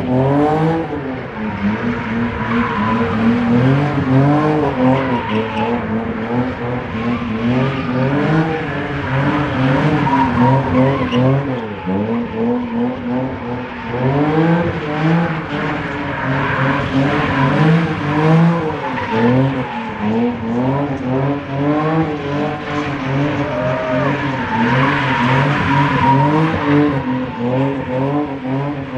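Car engine revved hard with the throttle worked up and down again and again, while the tyres squeal and skid through a drift.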